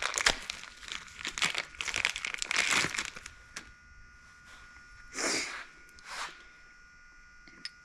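Packaging crinkling and tearing as a new engine valve is unwrapped from its box: a busy run of rustles over the first three seconds, then two short rustles a little after the middle.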